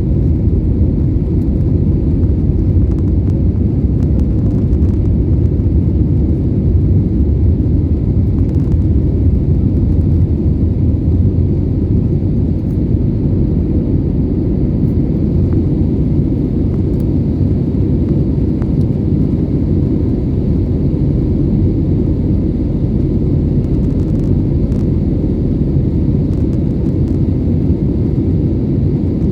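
Steady low rumble of an Airbus airliner's jet engines and rushing air, heard from inside the passenger cabin.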